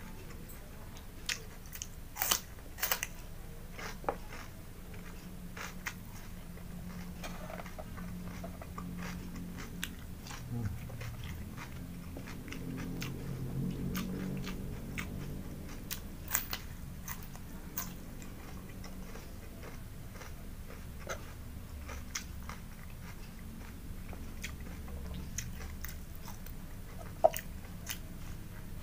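Close-up eating sounds: crisp bites and crunching chews of raw vegetables such as cucumber, with sharp wet mouth clicks scattered throughout. The loudest click comes near the end.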